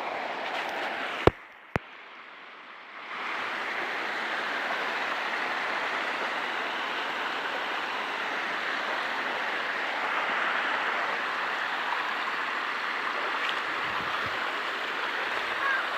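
Water rushing steadily at a small waterfall. About a second in come two sharp clicks, and the water sound drops away for a moment before returning.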